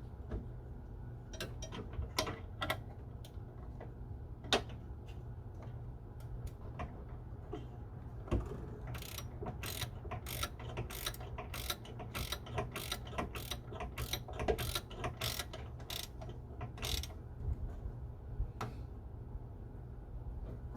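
Hand ratchet wrench clicking as it is worked back and forth on a bolt, a few scattered clicks at first, then a quick, steady run of clicks through the middle of the stretch, over a low steady hum.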